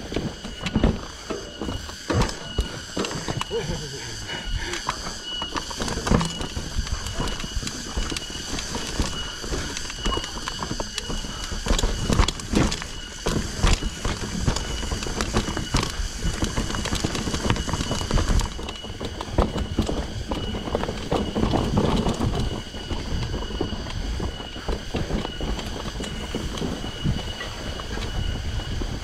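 Mountain bike rattling and knocking over rough trail ground: dense irregular clatter over a low rumble, with a steady high tone behind it.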